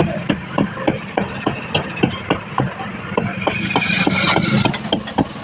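Steady rhythmic knocking, about three strikes a second, over a low steady hum, with a brief hiss about three and a half seconds in.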